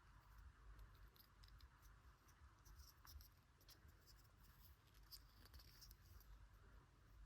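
Near silence, with faint scattered small clicks and scratches from a small plastic collectible figure being handled, over a low room hum.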